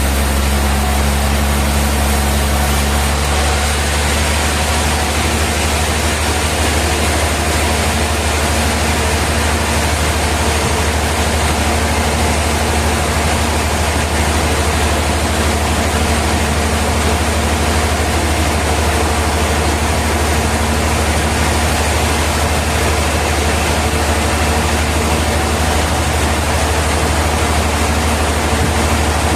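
Large industrial sawmill machinery running steadily: a loud, constant low hum with a dense, even noise over it.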